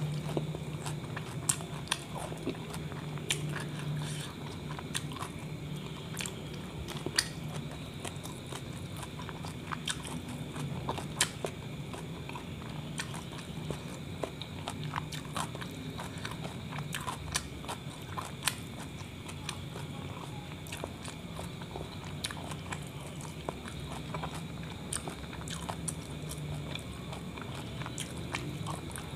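Close-miked chewing and biting of a kebab wrap: irregular wet mouth clicks and smacks throughout, over a steady low hum.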